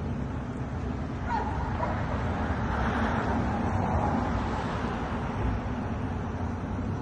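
Street traffic noise: a steady low rumble, with a vehicle passing that swells and fades between about two and five seconds in.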